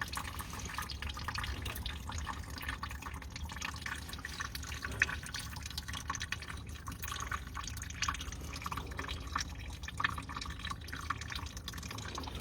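Coolant that is really plain water draining out of a car's cooling system into a catch container: a steady trickle with irregular drips and small splashes.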